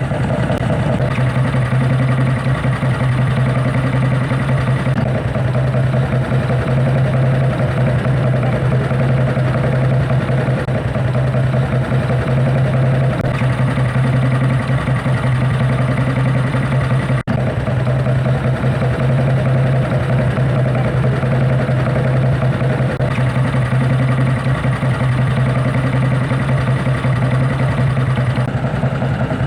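Vintage Royal Enfield motorcycle engine running steadily at idle, with no revving.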